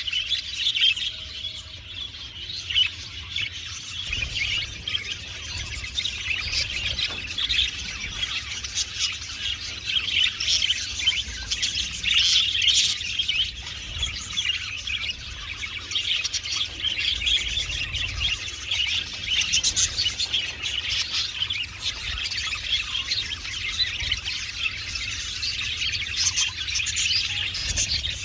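A colony of budgerigars chattering without pause, many short warbling chirps and squawks overlapping.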